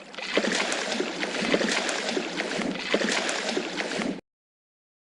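Water splashing and sloshing, with a run of sharp splashes, cutting off suddenly about four seconds in.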